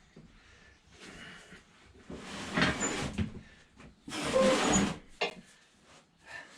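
Handling noise from engine parts and tools: two rustling, scraping bursts of about a second each, then a short knock.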